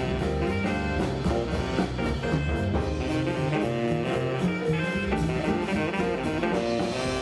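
Jazz played by a small band with bass, guitar and drums, swinging along at a steady beat.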